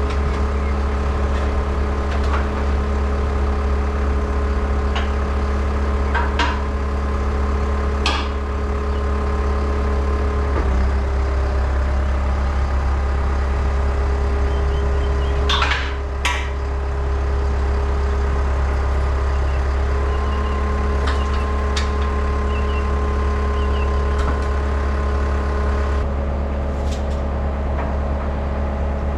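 Skid steer engine running steadily, its pitch shifting slightly a couple of times, with a few sharp metallic knocks, the loudest two about halfway through.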